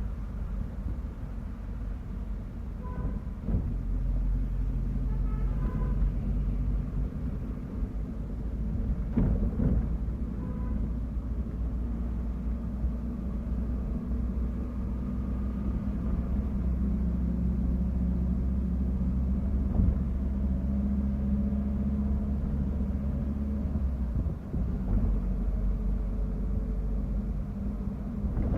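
Steady low engine and road rumble heard from inside a moving bus. A few short beeps come in the first ten seconds, a knock sounds about nine seconds in and another near the end, and a steady whine joins in the second half.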